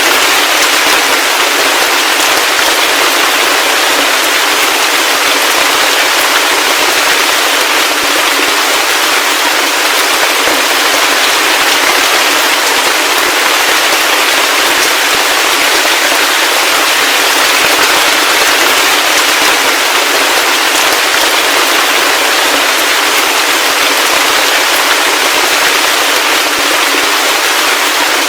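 Heavy rain falling steadily: a dense, even hiss made of countless fine, crackling drop impacts.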